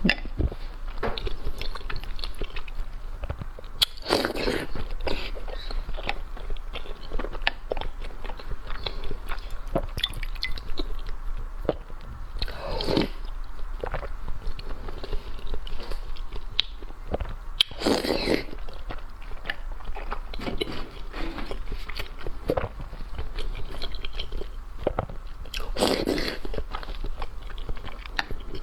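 Close-miked eating: continual chewing and biting with crunchy clicks, and four louder crunching bites spaced several seconds apart.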